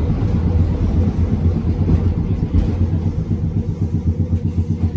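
Manyosen streetcar running, heard from inside the cabin: a steady low rumble of the traction motors and wheels on the track, wavering in loudness toward the end.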